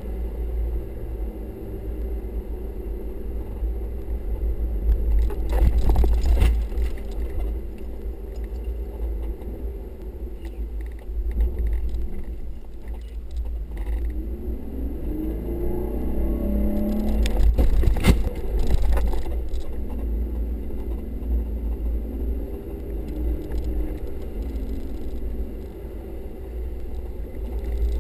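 Off-road vehicle's engine running and revving up and down as it drives through soft desert sand dunes, heard from inside the cab, under a heavy low rumble. Two spells of knocks and rattles from the vehicle jolting over the sand, the louder near two-thirds of the way through.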